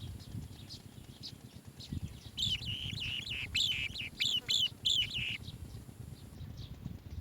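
Asian green bee-eater chicks calling: faint single high chirps, then about two seconds in a rapid run of louder, high chirping calls lasting about three seconds, with a low rumble underneath.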